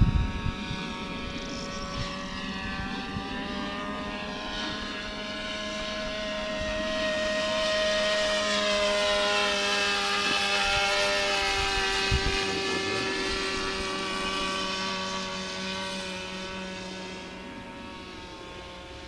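Radio-controlled trainer model airplane's motor and propeller droning in flight, growing louder as it passes closest about halfway through, then fading as it flies away.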